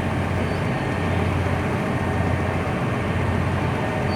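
Tugboat's diesel engine running with a steady low drone and an even rushing noise over it.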